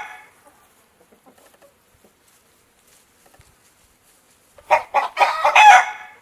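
A chicken calling once: a loud pitched call about a second and a half long, starting near the end after a few quiet seconds.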